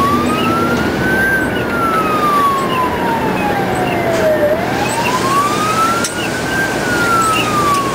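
Emergency vehicle siren on a slow wail, its pitch rising and falling in long sweeps of about five seconds each, over steady background noise.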